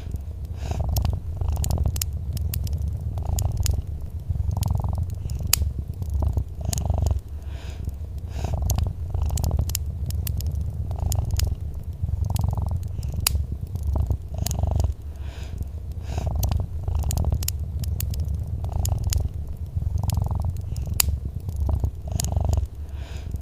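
Domestic cat purring steadily, the low rumble swelling and easing with each breath about once a second, over a wood fire in a fireplace crackling with scattered sharp pops.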